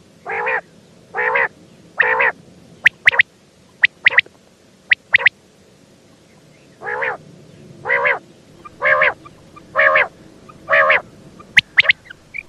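Female common quail calling: short repeated notes, each under half a second, about one a second. A run of three is followed by a pause of about four seconds, then five more. Short sharp clicks fall between the notes.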